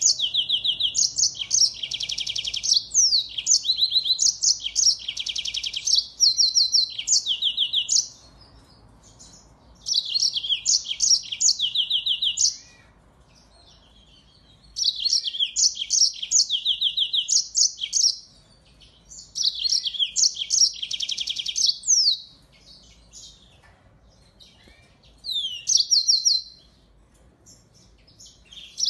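Finch song: a songbird delivering phrases of rapid high trills and chirps, each a few seconds long, separated by pauses of one to three seconds.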